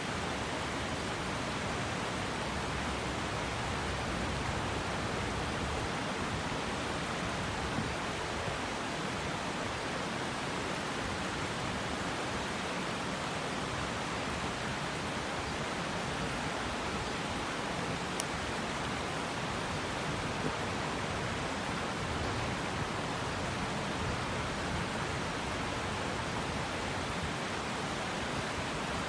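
River water rushing steadily, an even unbroken flow.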